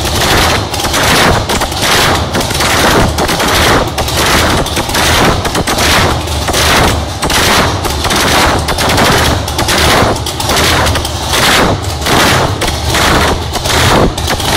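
Supercharged V8 engine of a rat-rod pickup race car running loud and rough through short open side exhausts, rising and falling about one and a half times a second, during its running-in.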